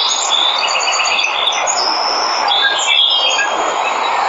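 Steady rush of falling water with many birds chirping and whistling over it, in short high notes.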